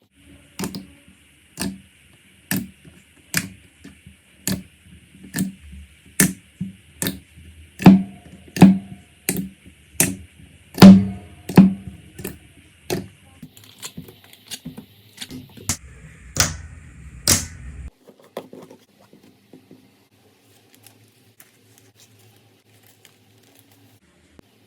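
Slime being squeezed and pressed by hand, giving sharp wet pops and clicks about once a second at a slightly uneven pace. The pops stop about three-quarters of the way through, leaving only faint soft handling sounds.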